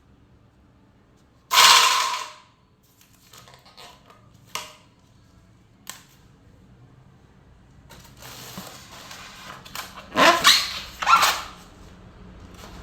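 Portable sack-sewing machine (bag closer) run in a short burst of rapid clattering about a second and a half in, followed by scattered clicks. A cluster of louder rattling sounds comes around ten to eleven seconds in.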